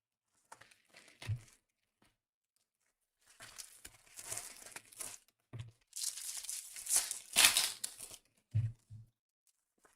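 Trading card pack wrappers being torn open and crinkled, in irregular rustling bursts that are loudest in the second half, with a few light knocks of handling in between.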